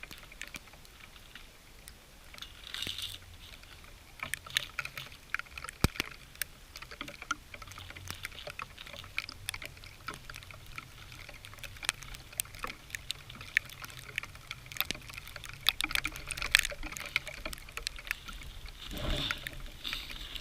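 Dry birch bark being peeled and gathered by hand: a run of irregular sharp crackles and tearing sounds, with a louder rustle near the end.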